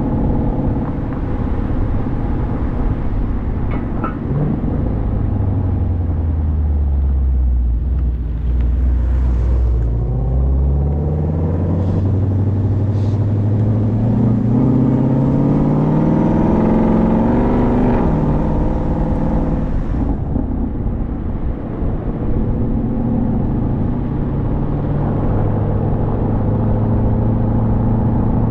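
Car engine under way on the road. Its note sinks for the first several seconds, then climbs steadily for about seven seconds under acceleration, drops suddenly at a gear change, and settles to a steady cruise. Road and wind hiss grows with the speed.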